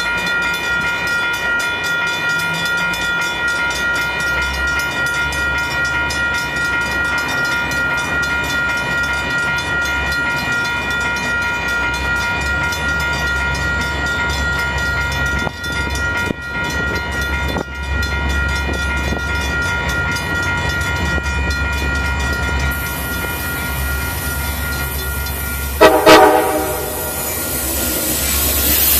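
Grade-crossing warning bell ringing steadily while the low rumble of an approaching Metra MP36PH-3C diesel locomotive grows. The bell stops, and near the end the locomotive sounds one short, very loud horn blast.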